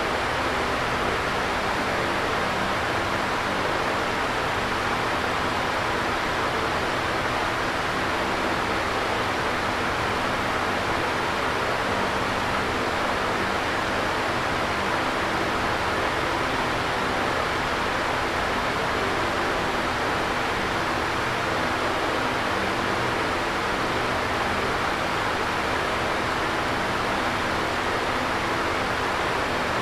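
Electric fan running steadily: an even whooshing air noise with a faint low hum underneath.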